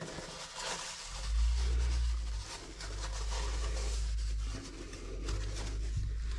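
Rubbing and scraping, with a low rumble of handling close to the microphone.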